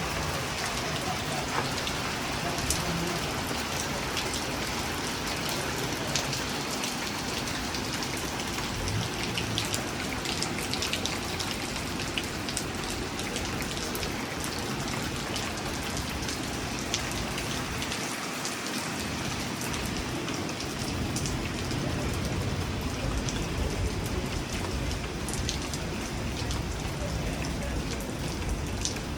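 Steady rain falling, with many separate drop hits ticking through it, over a low rumble of wind that rises and falls.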